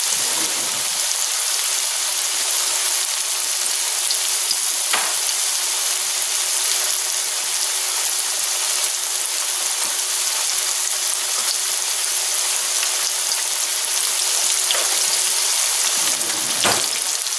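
Green tomato slices breaded in cornmeal, flour and grits sizzling steadily in about half an inch of hot oil in a cast iron skillet, with a faint steady hum underneath for most of it and a couple of light ticks.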